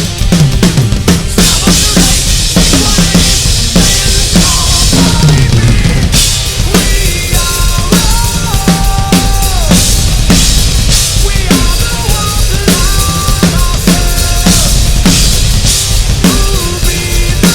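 Drum kit played live along with a recorded rock/metal song: steady, dense kick drum, snare and cymbal hits, with held melodic lines from the song coming in about six seconds in.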